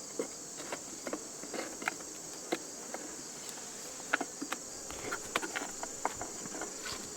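Steady high-pitched chorus of crickets, with scattered light clicks and taps throughout.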